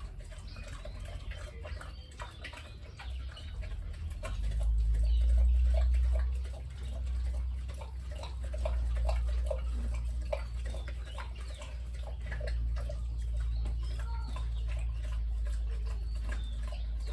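Chickens clucking and chirping in short, scattered calls over a low rumble that swells loudest about five seconds in.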